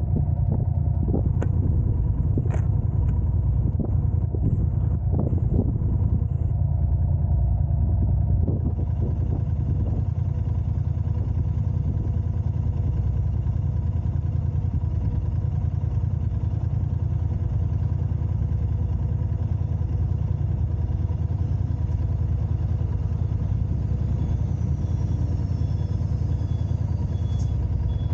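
Car driving, a steady low rumble of engine and road noise, with a few light clicks in the first several seconds.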